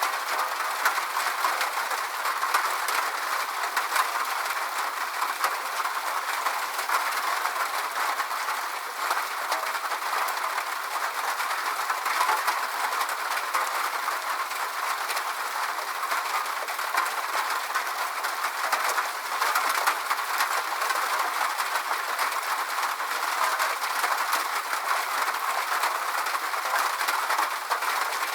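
Steady rain: an even hiss dotted with many small drop ticks, with no deep rumble, unchanging throughout.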